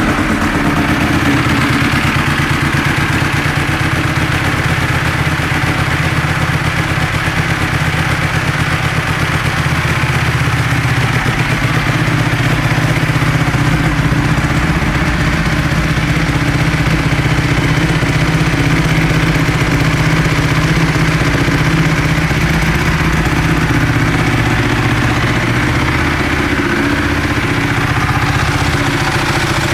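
Ducati Streetfighter 1098S's L-twin engine idling steadily through twin Termignoni exhausts, just after being started.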